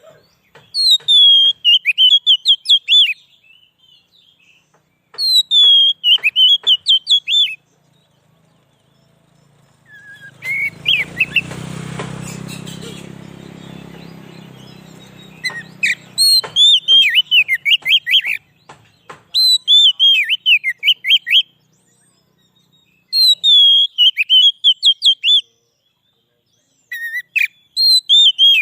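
Oriental magpie-robin (kacer) singing: repeated phrases of rapid, sharp chirping notes, each phrase two to three seconds long with short pauses between. About ten seconds in, a low rumbling noise swells and fades over some five seconds.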